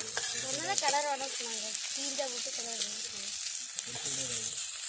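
Sliced shallots sizzling as they fry in hot oil in an iron kadai, stirred with a steel ladle.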